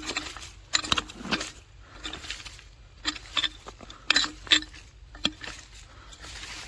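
Irregular clicks, knocks and crumbling scrapes, as of rotten firewood being broken apart and handled, with the sharpest cracks about a second in and again around four seconds in.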